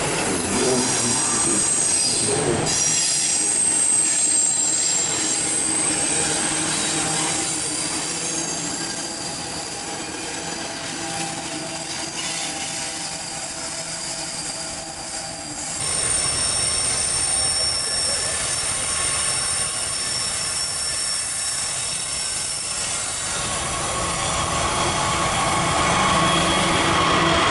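Freight train wagons rolling past, their steel wheels squealing on the rails in several high, steady tones. The sound changes abruptly about halfway through, and the squeal sits at a new pitch.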